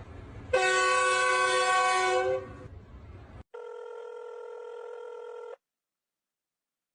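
A loud, steady horn-like tone lasting about two seconds, then a second, quieter steady tone that cuts off suddenly, followed by silence.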